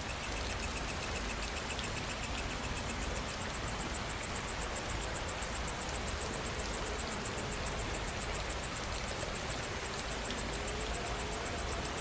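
Steady rain falling, with an insect's high-pitched, rapidly pulsing call running through it. A second, lower pulsing insect call joins for the first few seconds.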